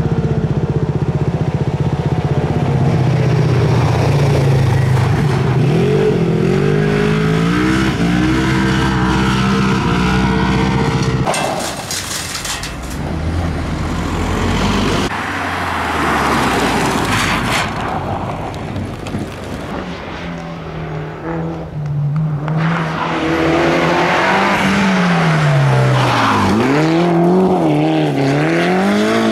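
Car engines on a rally stage during reconnaissance, revving up and down through gear changes. The sound changes abruptly about eleven seconds in. From about twenty seconds another car's engine rises and falls repeatedly through the corners.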